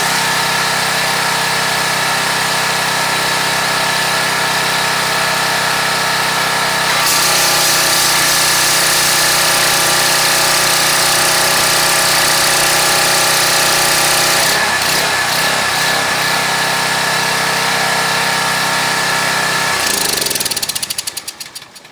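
Briggs & Stratton 175cc engine of a Craftsman 2700 PSI pressure washer running steadily, now holding speed under load after its carburetor was cleaned. For several seconds in the middle a loud hiss of the spray jet at full pressure joins it, and near the end the engine is shut off and coasts to a stop.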